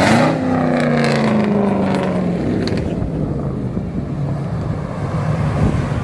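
Car engine, loud at first, its note then falling steadily in pitch over a couple of seconds, over steady road noise.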